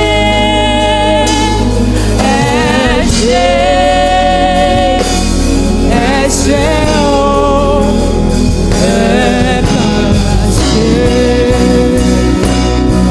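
Live gospel worship music from a band: long held melody notes that waver, over a steady low accompaniment, with no clear words sung.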